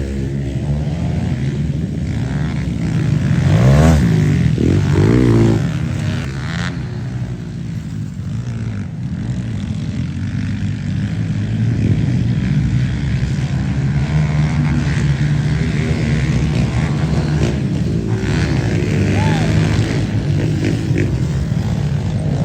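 Pit-bike engines running and revving on a dirt track, their pitch rising and falling as the throttle opens and closes. The loudest rev is about four seconds in.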